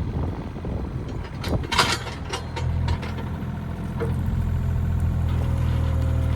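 Diesel engine of a small John Deere mini excavator running steadily, with scattered clanks and knocks in the first couple of seconds.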